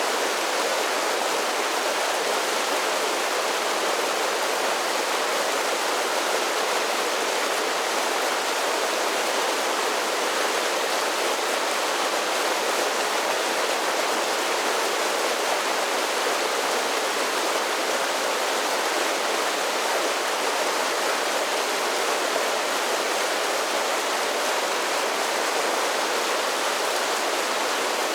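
Mountain creek pouring over a series of small waterfalls: a steady, even rush and splash of water that keeps going without a break and has little deep rumble.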